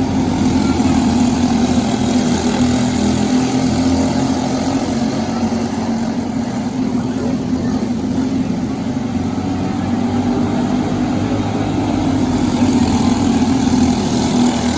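Briggs & Stratton LO206 kart engine running at speed, a loud continuous drone. Its pitch dips slightly about halfway through and rises again near the end.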